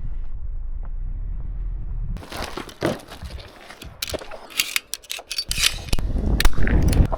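Wind rumbling on the microphone, then from about two seconds in, irregular crunching and rustling of footsteps through dry leaves and brush.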